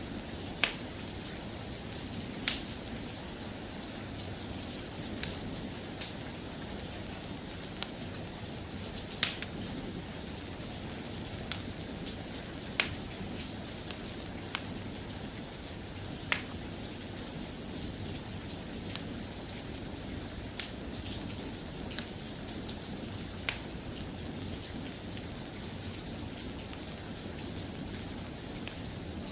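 Steady, soft rain, with a sharp click every few seconds at irregular times.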